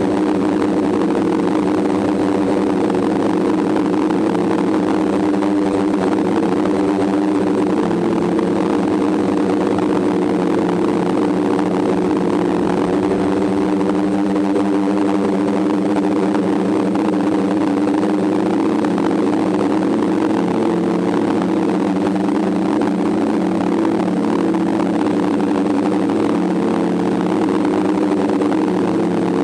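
DJI F550 hexacopter's six electric motors and propellers humming steadily in flight, heard close up from a camera mounted on the frame. The pitch wavers a little from time to time as the motors adjust their speed.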